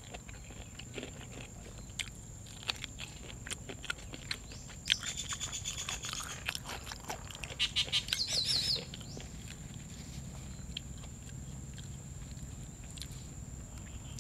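Close-up chewing and crunching, with sharp crisp bites, a person eating crunchy raw vegetables with rice noodles. About five seconds in, a high-pitched chirping sound joins for about four seconds, ending in a quick trill.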